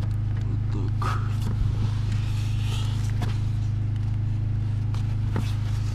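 A Fiat Grande Punto's engine idling with a steady low hum. A few light clicks and rustles from handling parts sound over it.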